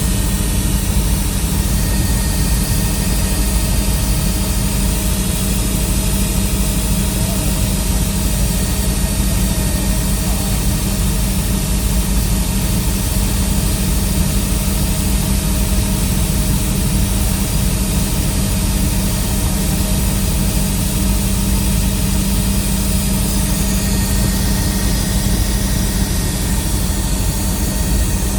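Helicopter in flight, its engine and rotor making a steady, loud drone heard from aboard.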